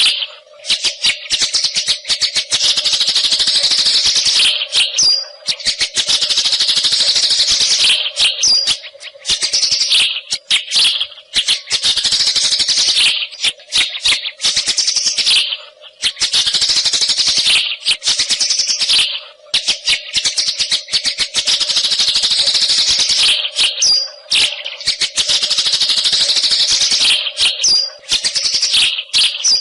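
Wild white-rumped shama (murai hutan) in long, loud song phrases of rapid chattering, rattling and whistled notes, broken every few seconds by short pauses, over a faint steady hum.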